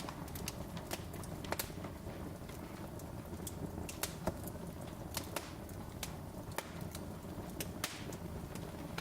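Wood fire crackling, with irregular sharp pops over a low steady rumble of burning logs.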